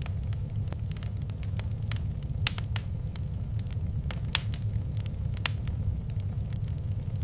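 Fireplace crackling: scattered sharp pops and snaps over a steady low rumble, with the loudest pops about two and a half, four and a half and five and a half seconds in.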